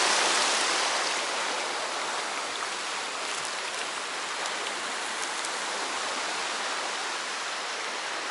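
Sea surf washing steadily on the shore, a continuous rushing that swells at the start and then holds level.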